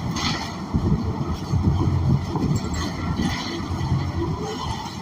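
Cabin noise of a 2014 New Flyer XN40 city bus under way: the Cummins Westport ISL G natural-gas engine running with a low, uneven rumble, mixed with road noise.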